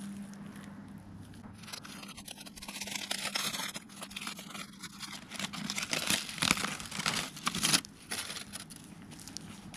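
Irregular crinkling, tearing and scraping handling noise, getting busier and louder in the middle and easing off near the end.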